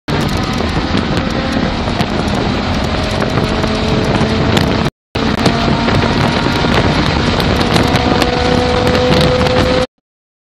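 BMW car engine pulling hard at high revs under acceleration, its pitch rising steadily, with wind noise over it. The sound drops out completely for a moment near the start and again about halfway, and cuts off abruptly near the end.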